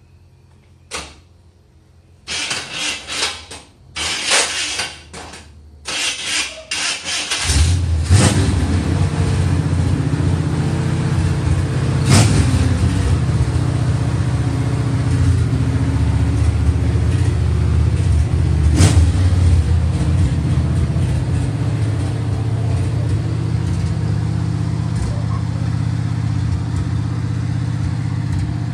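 A 1966 Chevrolet Impala's 350 Chevy small-block V8 being cranked by the starter in several short bursts. It catches about seven and a half seconds in and keeps running steadily: its first start after sitting 22 years. Two sharp cracks sound over the running engine, about seven seconds apart.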